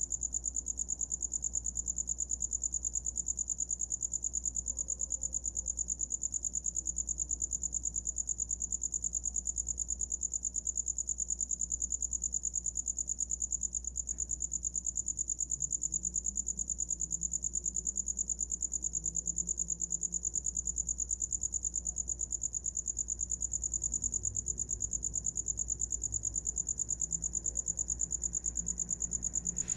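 A cricket singing: one continuous high-pitched trill that stays steady throughout.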